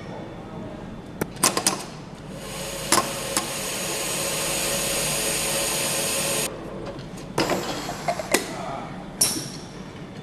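Workshop tool sounds from engine assembly: sharp metal clinks and knocks. Between them, from about two seconds in, a steady noise runs for about four seconds and cuts off suddenly, like a powered tool running.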